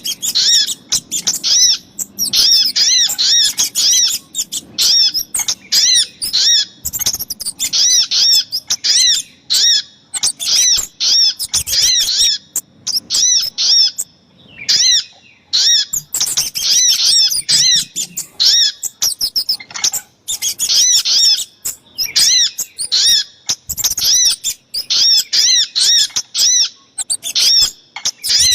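Bird-lure recording of small songbirds, sogok ontong (sunbird) mixed with kemade calls: fast runs of short, high chirping notes, several a second, broken by brief pauses, with one longer break about fourteen seconds in.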